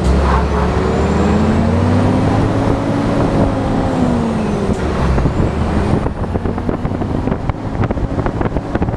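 Scania R420 truck's inline-six diesel engine pulling on a steep climb, its pitch slowly rising and falling. From about six seconds in it is joined by a rapid, rough crackling rattle.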